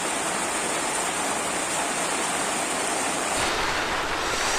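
Steady rushing noise of running water or rain, with a high insect trill over it that stops abruptly about three and a half seconds in.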